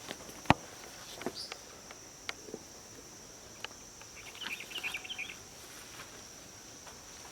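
Scattered sharp knocks and clicks, the loudest about half a second in, over a steady high insect-like drone, with a brief patch of high chirping about four to five seconds in.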